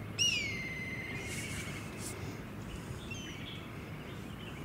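A bird calling: one long whistled note that drops sharply at its start and then holds steady for more than a second, with a fainter short call about three seconds in, over steady open-air background sound.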